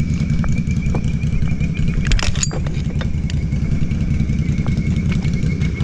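ATV engine idling steadily, with a brief clatter of sharp clicks about two seconds in.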